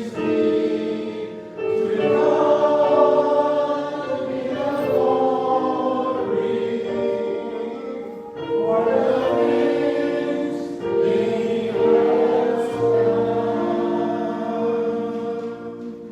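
Congregational or choir singing of a closing hymn, held sung notes with accompaniment, fading out near the end.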